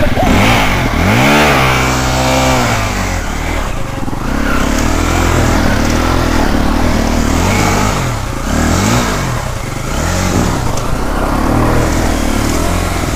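Enduro motorcycle engine revved hard again and again, its pitch rising and falling with each burst of throttle, as the bike is heaved up a steep dirt bank with helpers pushing.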